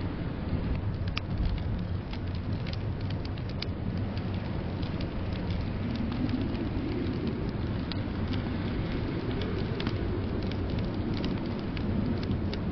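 Wood fire crackling in a fireplace, with scattered sharp pops, over a steady low rumble of blizzard wind that swells a little around the middle.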